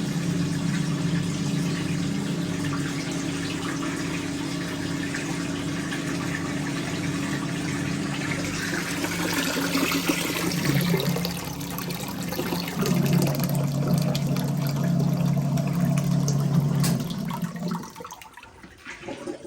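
1958 Hotpoint Empress washing machine's electric motor and drain pump running with a steady hum, pumping the wash water out through the drain hose, with water rushing and splashing into a sink. The hum shifts in pitch about two thirds of the way through and cuts off near the end as the tub runs empty.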